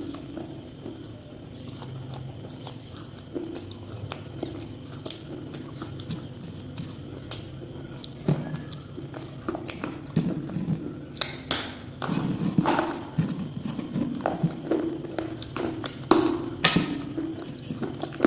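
Irregular hard taps, knocks and scrapes of objects being handled, sparse at first and coming thicker about halfway through.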